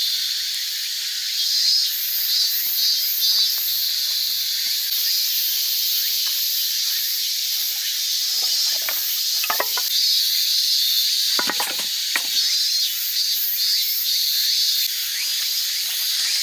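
Steady high-pitched chorus of insects chirping, with a few short knocks about halfway through.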